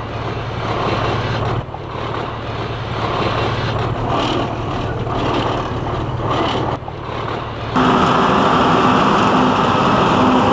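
Steady engine and machinery noise. About eight seconds in it switches abruptly to a louder machine hum with a different steady pitch.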